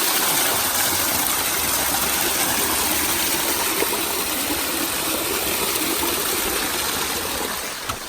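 Rushing water, a steady loud hiss of flowing water that dips a little in level near the end, with a small click just before.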